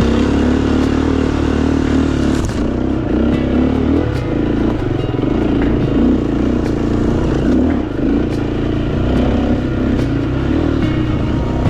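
Dirt bike engine running on a single-track trail, its pitch rising and falling with the throttle, with scattered clatter and scrapes from the bike over rough ground.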